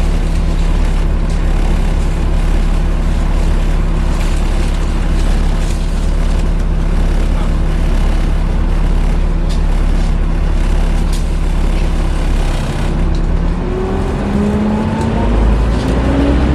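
Interior sound of a Volvo B7TL double-decker bus with its engine cooling fan running loudly in a steady hoover-like drone over the engine hum. About thirteen seconds in the steady hum breaks off and rising engine notes take over.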